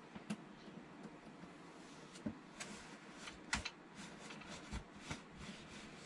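Hands unpacking a boxed model excavator: scattered light clicks and knocks with short bursts of packaging rustle, busiest in the second half.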